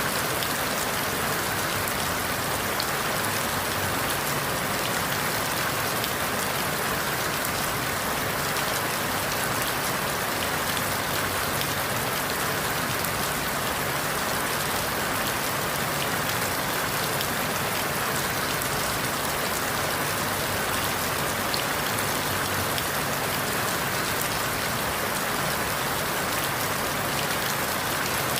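Steady rain falling through forest leaves, an even hiss with faint scattered drop ticks.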